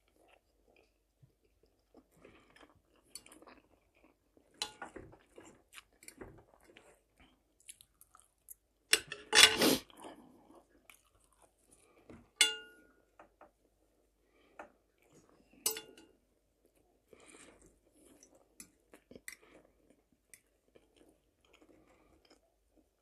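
Close-miked chewing of an omelette with bell pepper, soft and intermittent, with a few sharp clicks of a metal fork against the plate. About nine seconds in comes a louder noisy burst lasting about a second.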